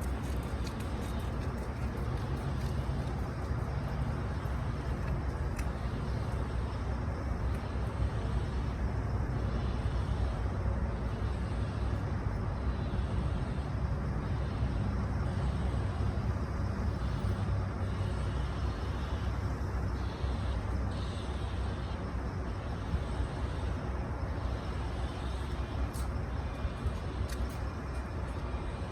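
Detroit Diesel Series 60 12.7-litre inline-six diesel in a Freightliner Classic XL truck, running steadily just after a cold start.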